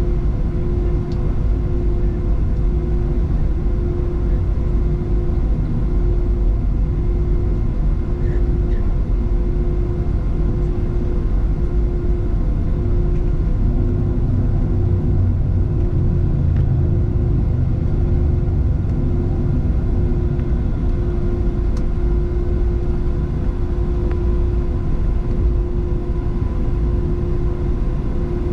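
Boeing 737-700 cabin noise heard from a window seat: the CFM56 jet engines and airflow make a steady low rumble with a few constant tones running over it.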